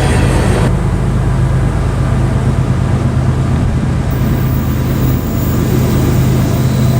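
Diesel locomotive engine running with a steady low drone; a broader rushing noise stops under a second in.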